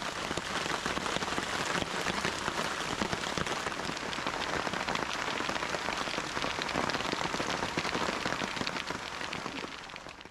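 Steady rain falling, a dense patter of drops that fades out near the end.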